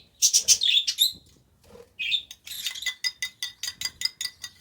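High-pitched lovebird chirps in the first second. From about two seconds in, a rapid, even run of light clinks, about six a second: a spoon stirring hand-feeding formula paste in a small cup.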